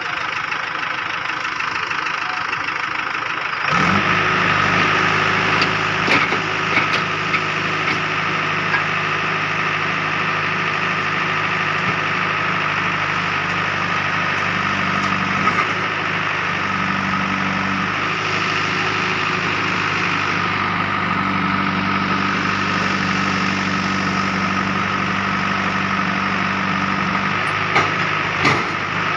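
Diesel engines of heavy machinery running steadily at idle. About four seconds in, a deeper, louder engine note comes in and holds, with a few sharp clanks soon after and again near the end.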